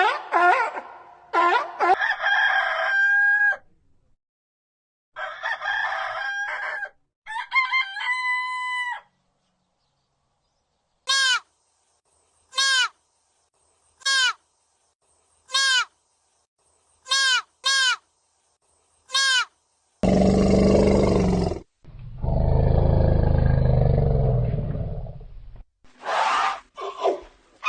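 A succession of different animal calls: pitched calls at first, then a series of short, high chirps, then a loud, low roar lasting about five seconds, and more pitched calls near the end.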